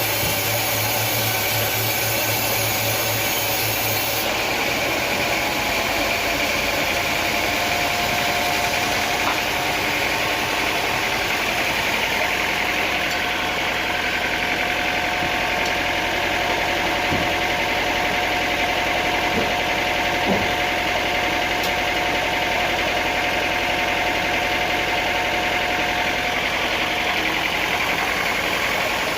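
Sawmill machinery running steadily, with an engine-like drone. The sound shifts slightly about four seconds in, and a couple of light knocks come near the middle.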